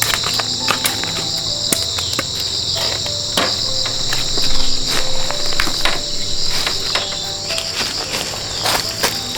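Steady chorus of insects chirring in a high band, with scattered sharp clicks and knocks throughout.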